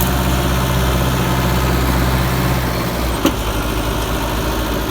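Tractor diesel engine running steadily, then about three seconds in dropping to a lower, slower pulsing idle. A single sharp click comes just after the change.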